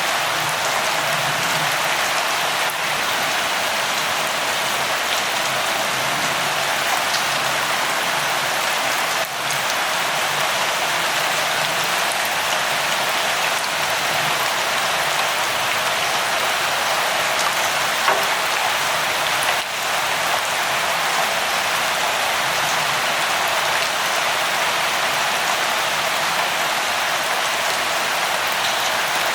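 Steady rain falling, an even hiss with the patter of drops on a surface. A single slightly louder drop-tap lands about two-thirds of the way through.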